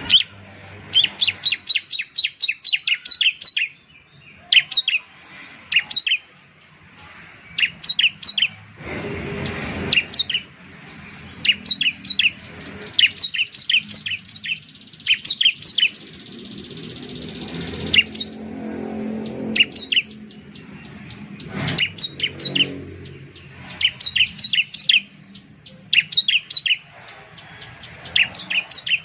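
Bar-winged prinia singing: bursts of rapid, sharp, high chirps, each a second or two long, repeated with short pauses. A brief burst of background noise comes about nine seconds in.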